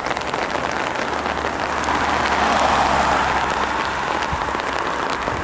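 Rain falling in a steady hiss that swells a little around the middle.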